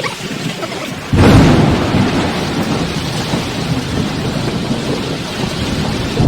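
Heavy rain pouring steadily, with a loud thunderclap about a second in that rolls on as a rumble under the rain.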